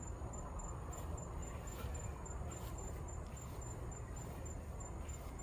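Crickets chirping in a steady high-pitched pulse, about four chirps a second, over a low rumble.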